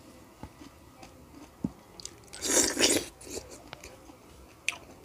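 Close mouth sounds of a person chewing juicy pineapple: soft wet clicks and smacks, with one louder half-second rush of noise about two and a half seconds in.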